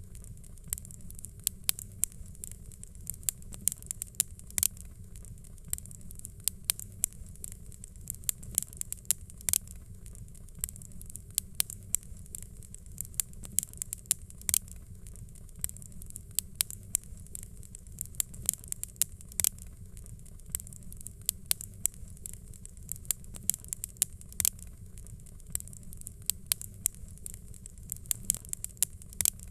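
Fireplace fire crackling: frequent sharp, irregular pops and snaps over a low steady rumble.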